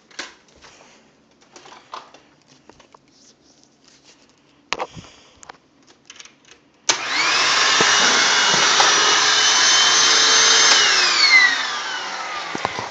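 Hoover WindTunnel upright vacuum: a few light clicks of the wand and tool attachments being handled, then the motor switches on abruptly about seven seconds in with a loud steady whine of suction. A few seconds later it is switched off and the whine falls in pitch as the motor winds down.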